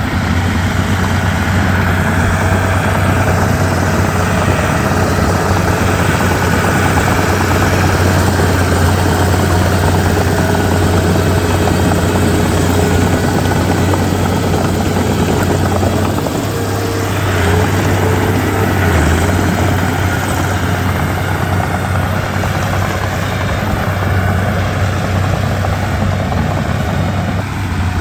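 Komatsu D31P bulldozer's diesel engine running steadily, a loud low drone, with a brief dip and change in pitch about two-thirds of the way through.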